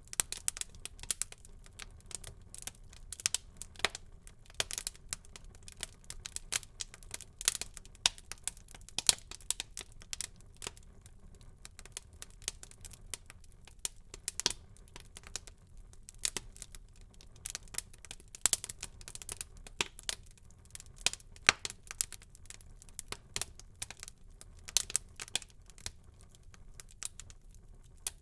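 Wood fire crackling in a fireplace: dense, irregular sharp pops and snaps, some louder than others, over a faint low rumble of the burning.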